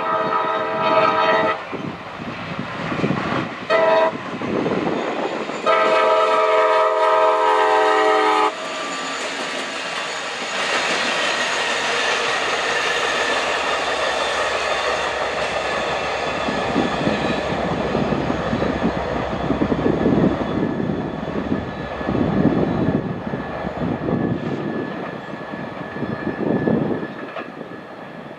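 A CSX GP40-2 diesel locomotive's multi-chime air horn sounds three times: a blast that ends about a second and a half in, a short toot, then a long blast, the closing long-short-long of a grade-crossing signal. The locomotive and its geometry train then roll past with steady engine and wheel-on-rail noise, easing off near the end.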